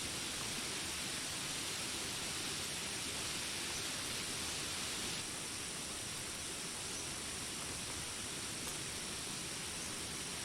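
Steady rain falling, an even hiss that becomes a little softer about halfway through.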